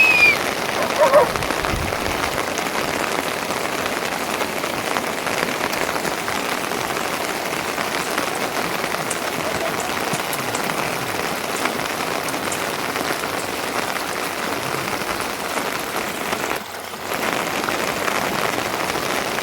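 Steady rain falling, an even hiss of drops. Right at the start and again about a second in, a short pitched call rises above the rain.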